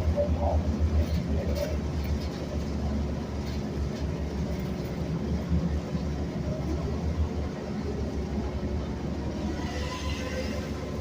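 Metro Line 460 city bus under way, heard from inside the cabin: a steady low engine and road rumble. A faint high-pitched whine comes in near the end.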